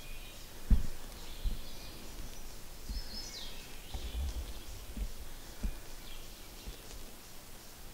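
Songbirds chirping in spring woods, with one falling note about three seconds in, over irregular low thumps, the loudest under a second in.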